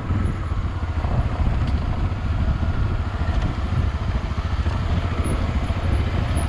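Honda XRE 300 single-cylinder four-stroke motorcycle engine running steadily at a slow trail pace over a rutted, muddy dirt track, its firing pulses heard as an even low beat.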